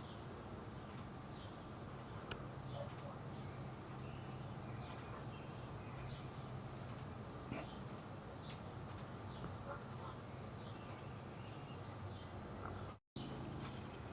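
Faint, scattered short bird chirps over a steady low hum of outdoor background noise; the sound cuts out for a moment near the end.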